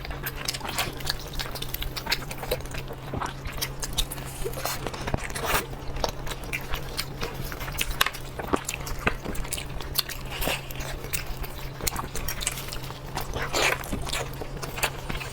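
A person eating close to the microphone: chewing and biting with many small, irregular wet clicks and smacks, over a steady low hum.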